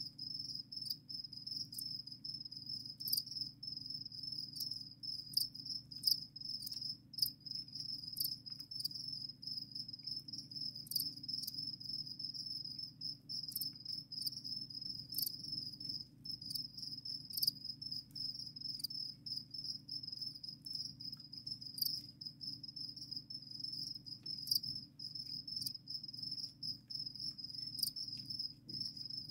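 Crickets chirping without a break, a dense high-pitched pulsing trill, with scattered short ticks over it.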